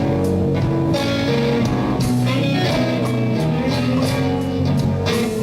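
Slow blues band music: a guitar plays a lead line between sung phrases over a steady bass.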